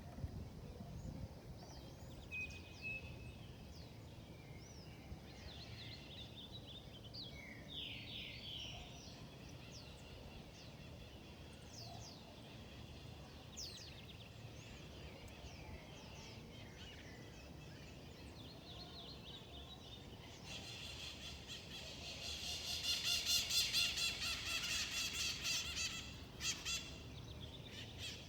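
Wild birds chirping and whistling in short scattered calls over a low outdoor rumble. About two-thirds of the way through, a louder, rapidly pulsing buzzy call sets in and lasts several seconds.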